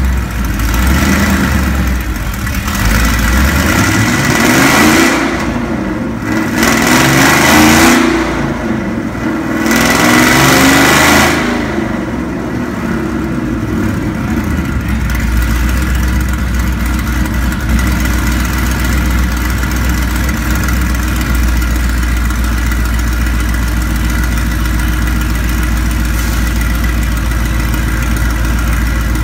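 Ford Mustang GT's V8 run on a chassis dyno: it revs hard in three surges over the first dozen seconds, the pitch climbing in each, then settles to a steady low idle.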